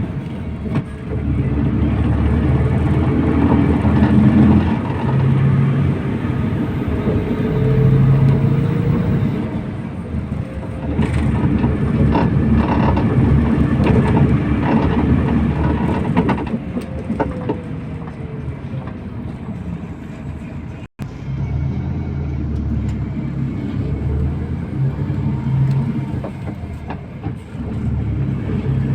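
MAZ 241.030 bus running on the road, heard from inside: a steady engine hum under road and tyre noise. Some knocks and rattles come around the middle.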